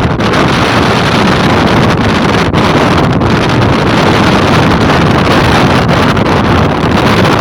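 Strong gusting wind roaring on the microphone, a loud, steady rush with no let-up.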